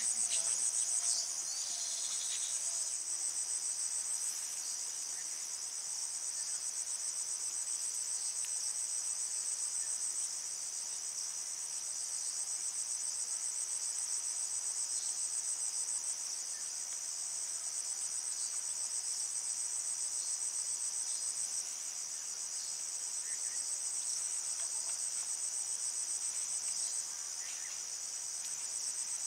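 A chorus of insects trilling, one continuous high-pitched ringing with a fine, fast pulse and no pauses. A few faint short chirps sound over it now and then.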